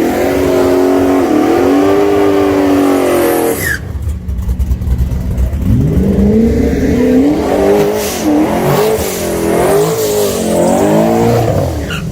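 Race car engine revved hard twice: the first time it climbs and holds at high revs, then cuts off sharply, and the second time the revs rise and fall several times.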